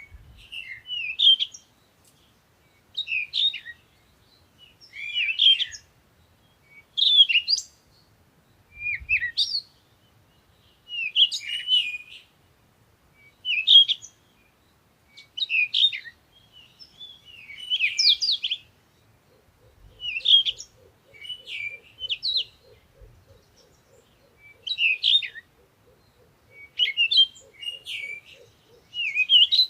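Birdsong: short, high chirping phrases repeated about every two seconds. About two-thirds of the way in, a faint, low, rapid pulsing joins in behind it.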